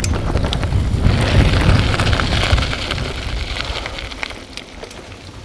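Wind buffeting a bicycle-mounted microphone, with a deep rumble and the hiss and scattered clicks of tyres rolling over a rough path; it quietens over the last couple of seconds.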